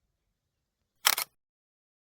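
Camera shutter sound: one quick snap of a few clicks about a second in.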